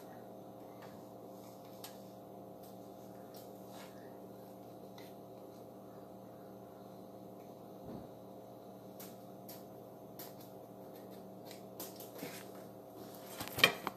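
Faint steady room hum with scattered light clicks and taps of small objects being handled, and a sharper click near the end.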